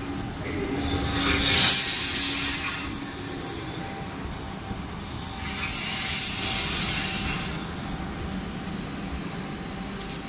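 Regional passenger train rolling slowly past a station platform. Its wheel-on-rail noise swells twice, about two seconds in and again past six seconds, with a faint high squeal in each swell.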